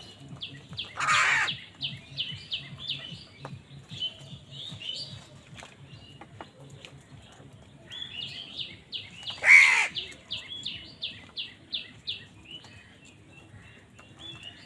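Birds calling: two loud, harsh caws about eight seconds apart, each followed by a rapid run of short, high chirping notes at four or five a second.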